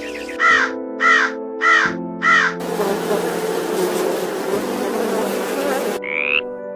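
Four short animal calls, evenly spaced about half a second apart, then about three seconds of dense buzzing, with short rising calls starting near the end.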